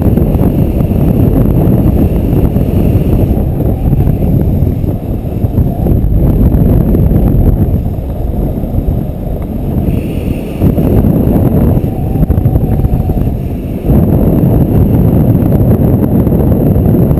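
Airflow buffeting the microphone during an engine-off paraglider glide: a loud, gusting rush of wind noise with no engine running.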